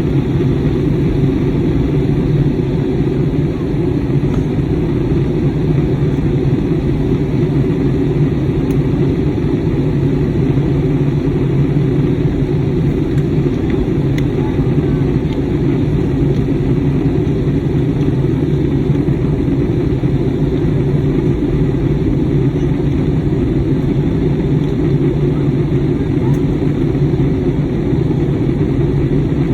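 Steady low rumble of engine and airflow noise heard inside the passenger cabin of an Airbus A320neo in flight.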